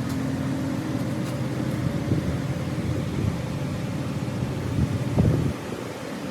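A machine running with a steady low hum, with a few knocks about five seconds in.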